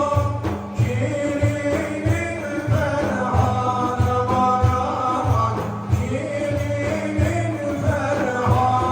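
Turkish Sufi hymn (ilahi): a sung melody over a steady drum beat of about two strokes a second.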